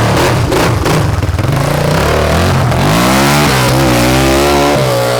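250 cc motorcycle engine running and being revved: its note climbs about two seconds in and holds at higher revs, wavering.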